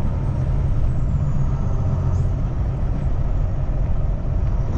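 Steady low rumble of a Kenworth T680 semi truck's diesel engine running.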